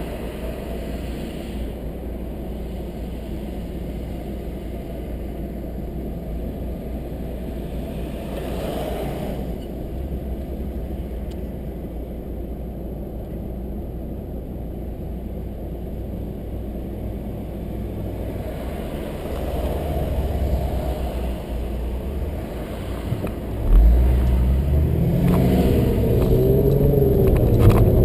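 Steady car engine hum and tyre noise heard from inside the cabin while driving. About three-quarters of the way through it gets suddenly louder as the engine revs up under acceleration.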